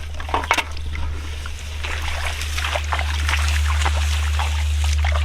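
Shallow water splashing and sloshing, with scattered small knocks and clicks, over a steady low hum.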